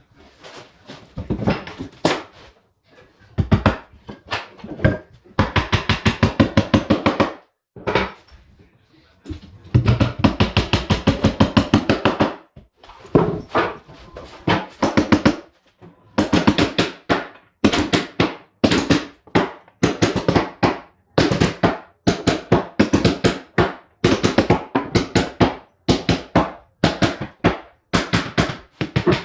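Bursts of rapid, even knocking, about a dozen strokes a second, each burst lasting one to a few seconds with short pauses between.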